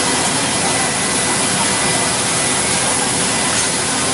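CNC wood router machine running, a steady loud rushing noise with a faint high whine held throughout.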